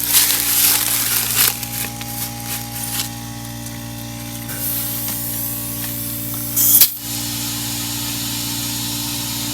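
Compressed air hissing from an air chuck on an old truck tyre's valve stem as it is aired up: bursts of hiss early on and one short loud burst about seven seconds in, over a steady machine hum.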